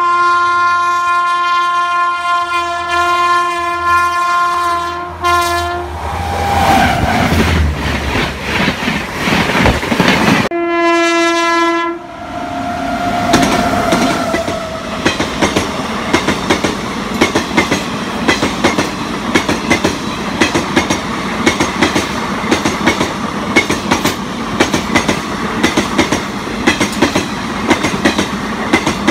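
WAG9 electric locomotive's horn sounding a long blast, then a second shorter one as the train rushes past, the pitch falling as it goes by. After that comes a steady rapid clickety-clack of the parcel vans' wheels over the rail joints at speed.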